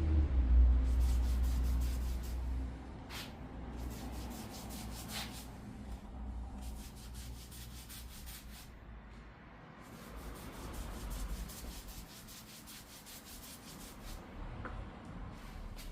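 Stain being rubbed onto ginkgo wood: quick, scratchy back-and-forth strokes of an applicator on the wood surface. A low rumble fades out in the first couple of seconds.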